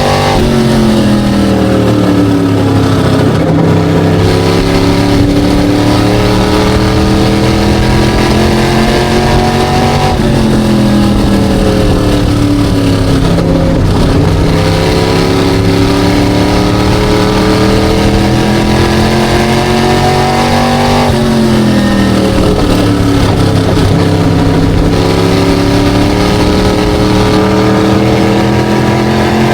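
SK Light modified race car engine running hard around an oval. Three times the engine note drops for a few seconds as the driver lifts for a turn, then climbs steadily as the car accelerates out onto the straight.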